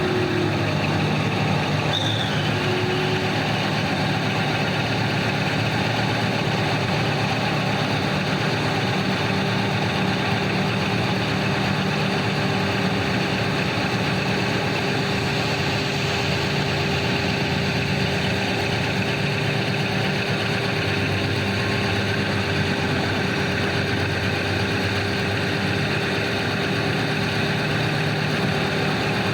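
Heavy diesel engines of large mining machines running steadily at a constant level, with a steady whine that sets in about two seconds in.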